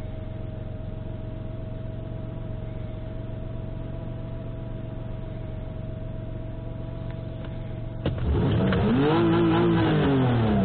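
Freshly rebuilt Toyota 3VZ-FE 3.0 L V6 engine idling steadily, then revved once about eight seconds in, its pitch rising to a peak and falling back toward idle.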